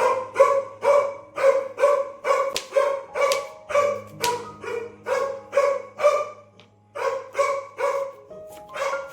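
A dog barking over and over, about two to three short barks a second, with a brief pause near the end.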